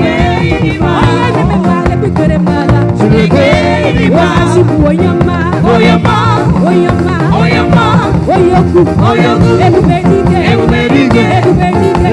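Live Nigerian praise music: a band playing at full volume with a voice singing wavering melodic lines over it.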